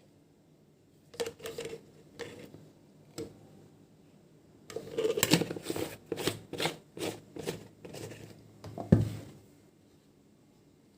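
Household items being handled by hand: a few scattered clicks and taps, then a busy stretch of rustling and tapping in the middle, and a single thud about nine seconds in.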